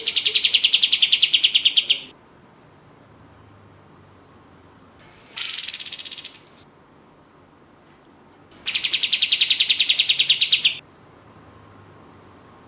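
Kapas tembak songbird singing three rapid trills, each a fast, even run of sharp high chirps at roughly a dozen notes a second. The first and last trills last about two seconds, and the middle one, about five seconds in, lasts about one.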